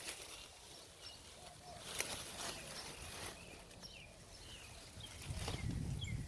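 Small birds chirping, with short high calls repeating, and a sharp click about two seconds in.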